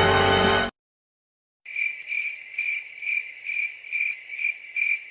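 A music clip cuts off under a second in, then after a moment of silence a cricket chirps steadily, about two high chirps a second: the stock "crickets" sound effect used to mark an awkward silence.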